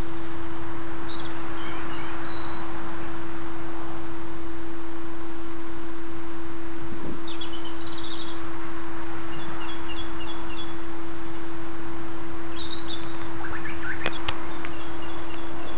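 Small birds singing short phrases of quickly repeated high chirps, a phrase every few seconds, over a steady hum and hiss.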